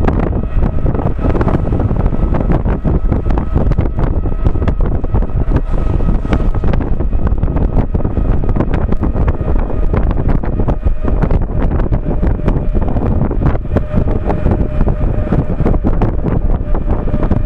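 Knobby tire of an Inmotion V13 electric unicycle rolling on pavement at riding speed, a steady rumbling roar with a faint constant whine in it. Wind buffets the microphone throughout.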